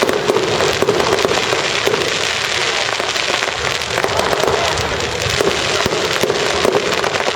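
Fireworks going off continuously: a dense run of crackling pops and bangs, over the steady chatter of a crowd.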